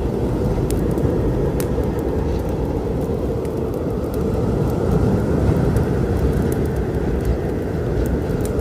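A steady, low storm rumble, with the sharp crackles and pops of a wood fire scattered over it every second or so.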